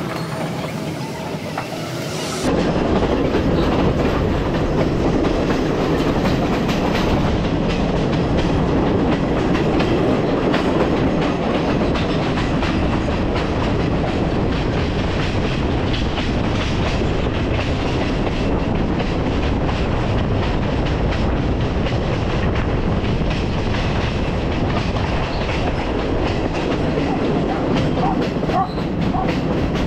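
Sri Lanka Railways S12 diesel multiple unit running along the track, heard from an open carriage window: a steady rumble with the clickety-clack of wheels over the rail joints. It gets suddenly louder about two seconds in and then holds steady.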